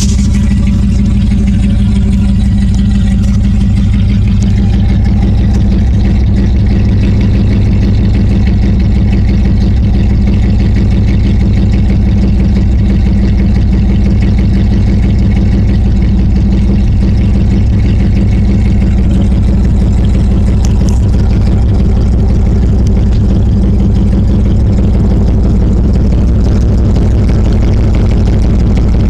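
1996 Dodge Ram 1500 engine running at a steady idle through a cut exhaust that ends about a foot past the rear O2 sensor, so it is loud and unmuffled. Recorded close on a phone mic that overloads and misses the bass, so it sounds harsh and distorted.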